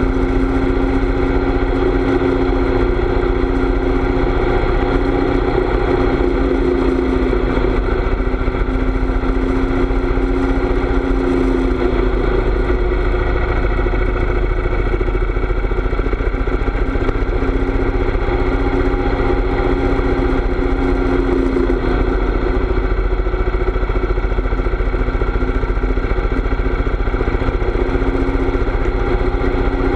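Harley-Davidson V-twin motorcycle engine running steadily at cruising speed while riding, with a constant low wind rumble over the microphone.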